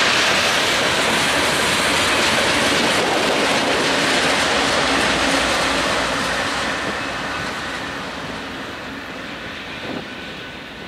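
Freight train rolling past, with steel wheels running over the rails. The sound fades from about six seconds in as the rear diesel locomotive passes and moves away.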